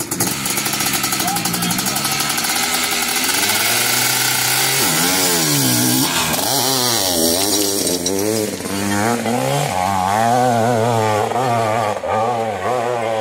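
Hillclimb dirt bike engine revving hard under full throttle. The note holds high at first, then about five seconds in starts surging up and down again and again as the rider works the throttle up the slope.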